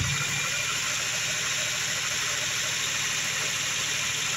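2003 Ford Focus's Zetec four-cylinder engine running steadily at an even speed, with no revving.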